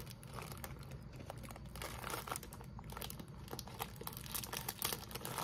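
Plastic cracker packaging crinkling as it is handled, a steady run of irregular small crackles.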